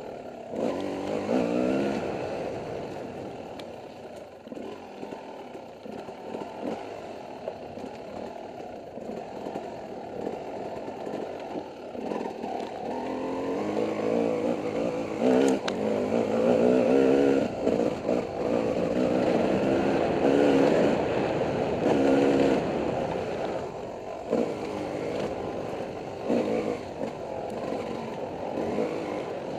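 Dirt bike engine revving up and down as it is ridden over a rough off-road trail, with rattling and knocks from the bike over the terrain. The engine runs quieter for several seconds early on, then is pushed harder and louder through the middle.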